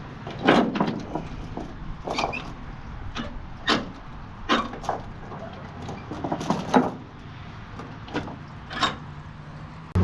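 Irregular heavy metal clanks and rattles, about a dozen, of steel tie-down chains being handled on a flatbed trailer, over a faint steady low hum.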